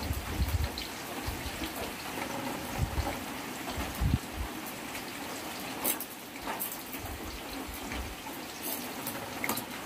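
Steady heavy rain falling on a corrugated zinc roof, with a few sharp drip-like clicks in the second half.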